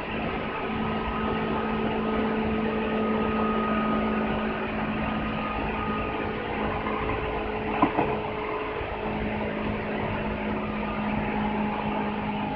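Seibu 2000 series electric train running at steady speed: rolling rail noise with a steady hum of traction motor and gear tones. A single sharp knock comes about eight seconds in.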